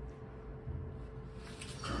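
Faint low background rumble; near the end, the rush of water from a homemade toilet's flush begins to rise.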